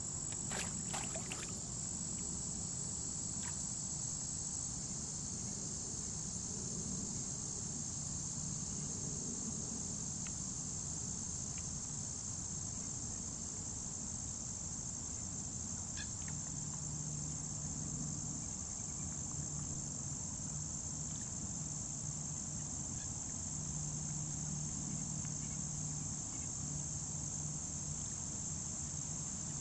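Steady chorus of crickets, a continuous high-pitched trill that does not break. A faint low hum comes and goes through the second half, and there are a few light clicks about a second in.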